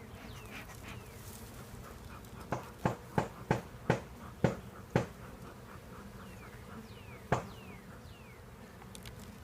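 Honeybees buzzing around an open hive, a steady low hum. Through it comes a run of sharp taps and knocks, about seven in under three seconds, then one more a couple of seconds later. A few faint short falling chirps are heard as well.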